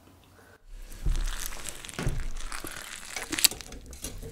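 Eating sounds from a giant gummy pizza jelly: biting and chewing the soft gummy, with uneven wet crackly mouth noises that start about half a second in after a moment of silence.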